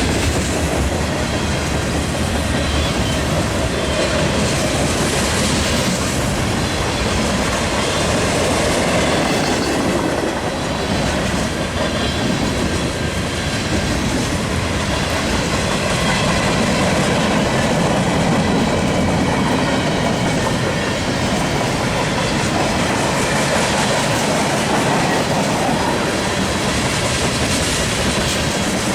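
Freight train cars rolling past, a steady rumble and clatter of steel wheels on the rails.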